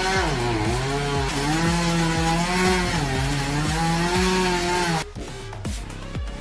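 Chainsaw cutting into a tree trunk, its engine pitch dipping and rising as the chain loads up in the cut, then cut off suddenly about five seconds in. Faint background music with a steady beat underneath.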